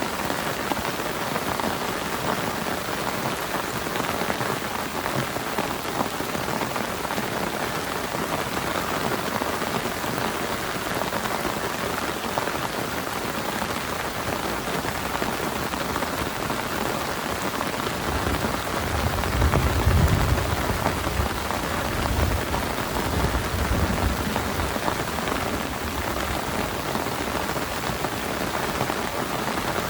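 Heavy rain falling steadily. About two-thirds of the way through, a low rumble of thunder rolls in for several seconds.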